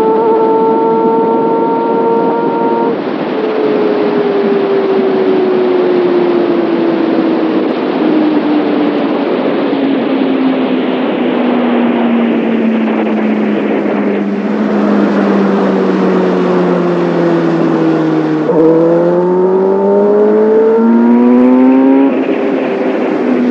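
Kawasaki Ninja ZX-6R inline-four exhaust heard from the rider's seat, with wind rushing over the microphone. The engine note sinks slowly for about fifteen seconds as the revs fall, then rises sharply under throttle and drops at a gear change near the end.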